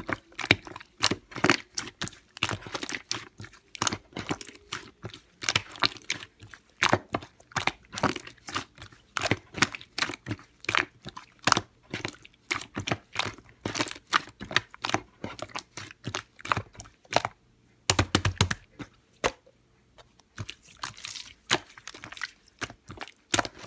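Slightly melted, squishy-soft slime being squeezed and pressed by hand, giving a stream of irregular wet clicks and crackling pops. There is a short pause about two-thirds of the way through that opens with a low thud, before the clicking resumes.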